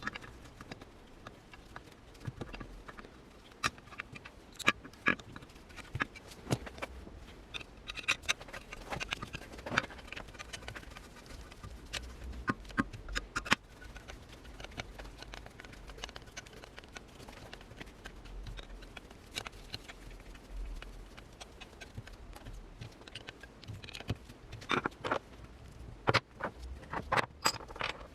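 Irregular clicks, taps and knocks of parts and tools being handled during workshop work on a bench grinder, coming in clusters.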